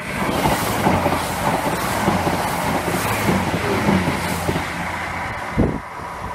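A Great Western Railway passenger train of Mark 3 coaches passing close at speed: a heavy rumble with a low steady hum and repeated wheel clatter over rail joints. A sharp thump comes about five and a half seconds in, after which the sound drops away as the train clears.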